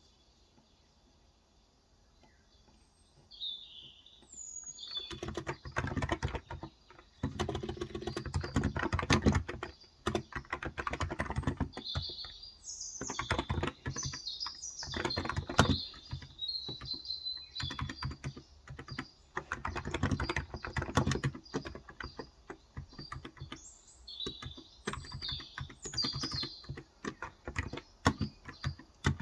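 Typing on a Cox Endeavour tenkeyless electrostatic capacitive keyboard with light 35 g switches, in bursts of keystrokes that begin about five seconds in. Birds chirp briefly several times over the typing.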